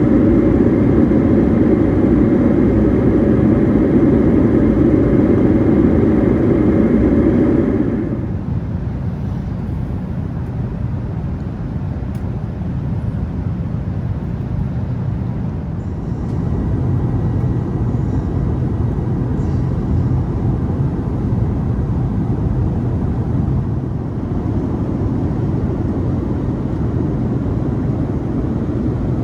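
Steady cabin noise of an Airbus A380 in flight, an even low rumble. A louder, fuller hum over it for the first eight seconds stops suddenly, leaving the lower rumble.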